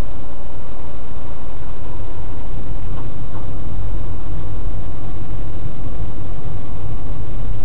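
Steady low road and engine rumble of a car travelling on an expressway, with two faint ticks about three seconds in.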